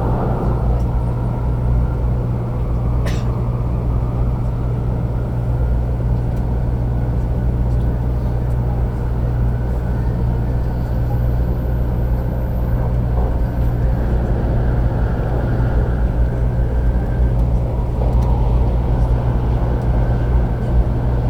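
Steady rumble inside a 500 series Shinkansen car running at speed, with a single sharp click about three seconds in.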